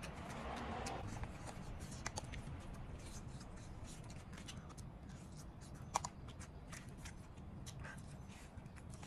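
A person chewing a mouthful of barbecued meat, with wet mouth smacks and small clicks scattered throughout, and one sharper click about six seconds in.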